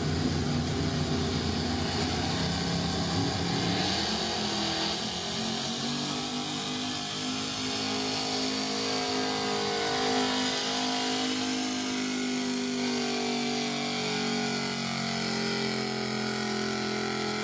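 Modified gasoline pickup truck engine running hard at high revs under load while pulling a weight-transfer sled, with a steady, loud note; the note changes about four seconds in.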